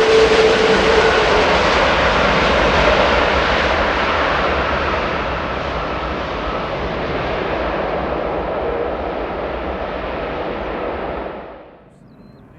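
Jet engines of an Airbus A330-300 airliner passing and moving away: a loud, even roar that slowly fades and grows duller, then cuts off suddenly near the end.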